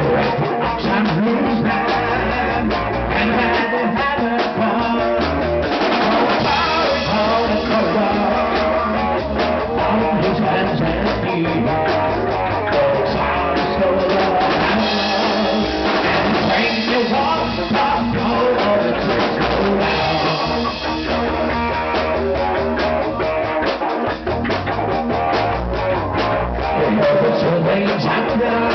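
Rock band playing an instrumental intro: guitar, bass guitar and drum kit, with a steady driving beat.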